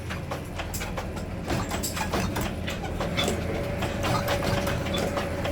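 Workshop machinery running with a steady low hum, under frequent irregular metallic clicks and knocks from metal being worked.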